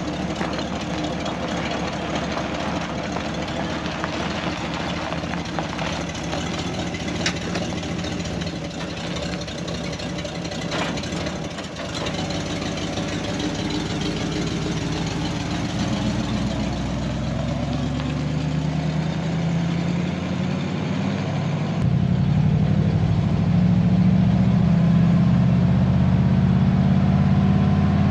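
1955 GMC 100 pickup's V8 engine running during a drive. About halfway through, the engine note rises and grows louder, with a further jump in loudness about three-quarters of the way in.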